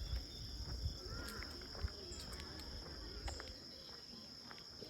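Steady high-pitched chorus of insects, crickets or similar, with soft footsteps along the trail.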